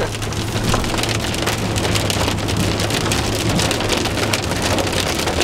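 Rain pattering on the car's roof and windows, heard from inside the cabin as a dense, steady patter of drops over a low steady hum.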